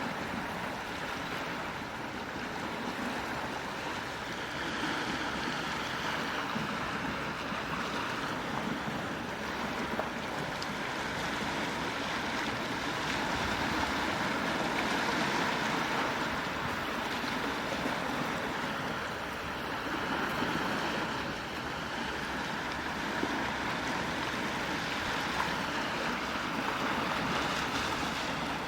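Gentle sea waves washing onto the shore, the wash swelling and easing slowly every several seconds.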